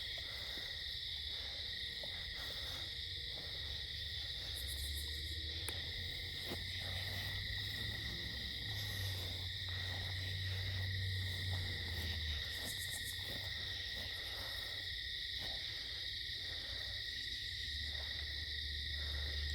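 Steady night-time insect chorus, a continuous high trill, with a low droning hum that fades in and out.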